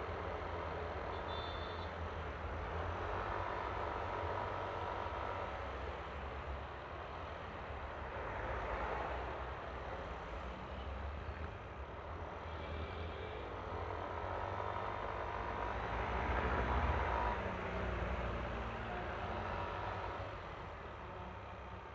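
Yamaha Aerox V3 155 cc single-cylinder scooter running on the road, with a steady low engine rumble and road and wind noise that swell twice, loudest about three quarters of the way through, as traffic passes or the scooter speeds up.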